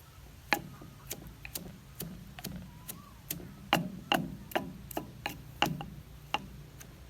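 A run of sharp wooden knocks, roughly two a second and slightly uneven, in the kind of steady working rhythm of hand food preparation.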